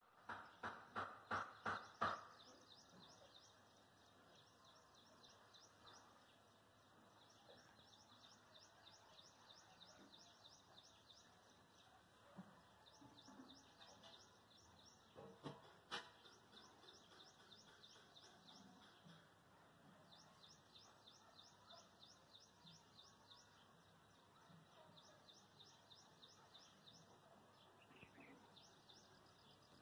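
Near silence broken by quick high bird chirping in runs of a few seconds that stop and start. It opens with about seven quick taps in the first two seconds, and two sharp knocks come about halfway through.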